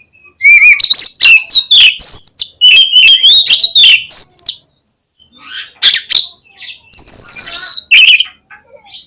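Oriental magpie-robin (kacer) singing loudly: a rapid run of varied gliding whistles and chirps, a short pause, then harsher scratchy notes and a long held whistle.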